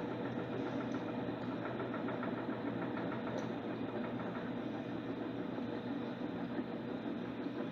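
Electrolux LTC10 top-loading washing machine running steadily through its jeans cycle, with a continuous motor hum.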